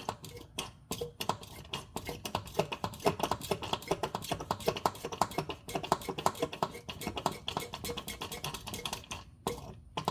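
Hand pump screwed onto a gear oil bottle being worked in quick strokes, a fast run of clicks as gear oil is pumped through a hose into the differential's fill hole; it stops about nine seconds in.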